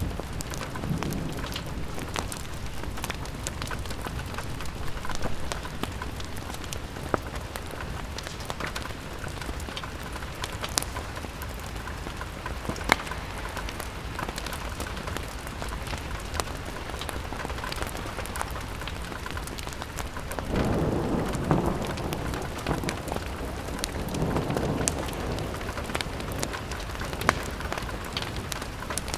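Steady rain pattering on a window, with many small sharp clicks and crackles scattered through it. Two low rumbling swells come a few seconds apart, about two-thirds of the way through.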